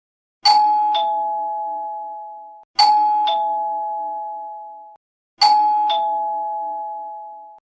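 Two-tone doorbell chime sounding ding-dong three times, about every two and a half seconds: each time a higher note is struck, then a lower one about half a second later, and both ring and fade for about two seconds before stopping.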